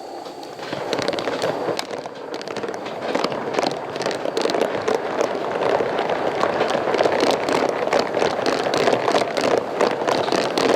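Coal-fired steam locomotive 4633 under way while switching cars: a dense, irregular crackling rush of steam exhaust and running gear that builds over the first second and then stays steady.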